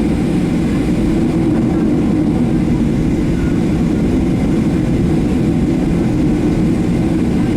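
Steady low rumble of cabin noise inside a Boeing 737-700 airliner on the ground before takeoff.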